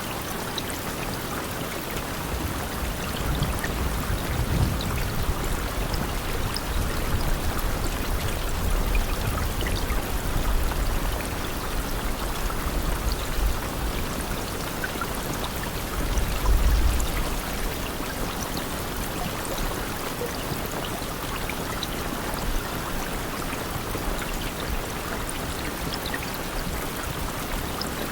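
Steady rain falling, an even hiss with pattering drops. A low rumble swells and fades several times in the first half, loudest about seventeen seconds in.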